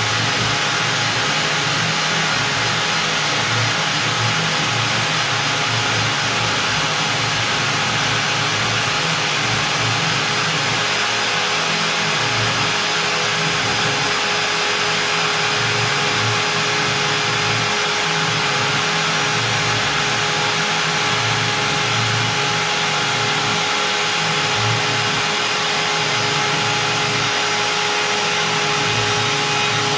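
Stepcraft M1000 CNC router's spindle running at 25,000 rpm with a steady whine, its 4 mm up-down compression bit cutting through beech. Under the whine, the lower cutting noise rises and falls unevenly.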